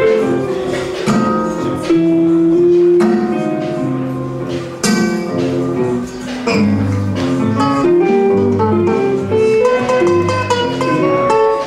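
Instrumental music played on a plucked guitar, a quick run of separate notes, with deeper bass notes joining about halfway through.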